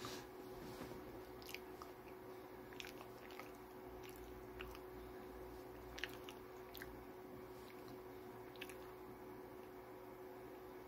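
Faint chewing of pizza rolls, with scattered small wet mouth clicks and squishes, over a steady low room hum.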